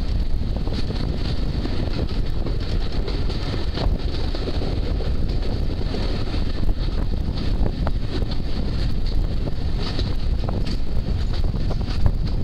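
Wind buffeting a microphone held out of the window of a moving Hampshire DEMU diesel train, over the train's steady running noise, with a few faint ticks from the wheels on the track.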